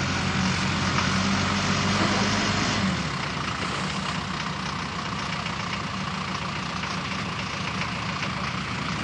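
Land Rover 109's engine running as it drives slowly through mud, a steady low note over a constant hiss. About three seconds in the engine note drops and stays quieter.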